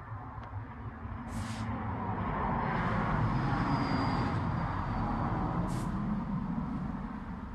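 A vehicle passing by, growing louder to a peak about three to four seconds in and then fading away. Two short high hisses cut in, about a second in and again near six seconds.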